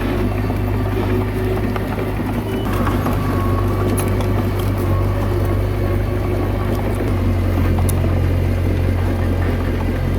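Komatsu D21A bulldozer's diesel engine running steadily, with a few faint clicks over the low hum.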